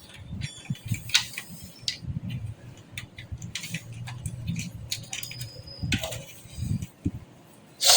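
Irregular small clicks and light metallic clinks, a few a second, from parts and screws being handled while a desktop PC is assembled in its metal case.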